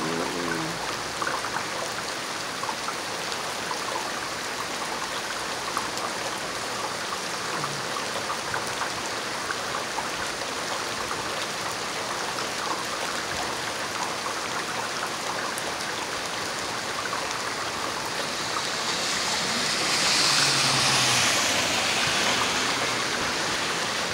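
Heavy thunderstorm rain pouring down steadily. About twenty seconds in it swells louder for a few seconds, then eases back.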